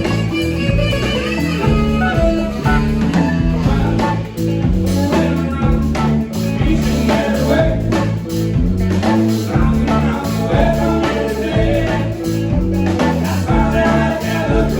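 A live band playing: guitar over bass and drums.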